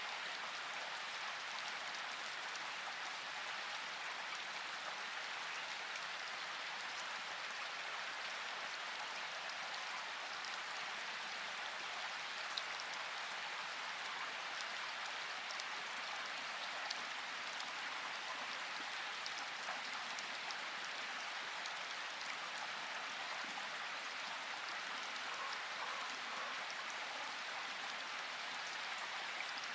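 Steady, even hiss-like background noise with a few faint ticks, one about twelve seconds in and one about seventeen seconds in.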